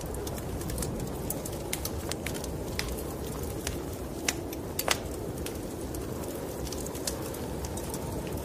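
Wood fire in a fireplace crackling, with irregular sharp pops, a couple of louder ones about halfway through, over a steady low rumbling noise of the snowstorm wind.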